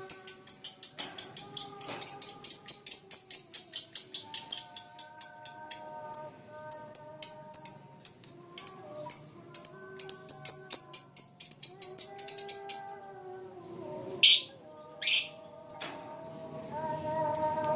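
Lovebird chirping in a fast run of short, high chirps, about eight a second, then a few louder separate calls near the end, over background music with held notes.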